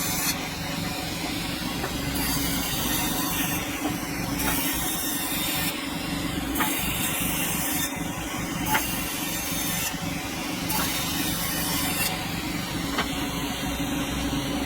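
Sawmill machinery running: a steady machine hum under a hiss, the hiss changing abruptly every second or two.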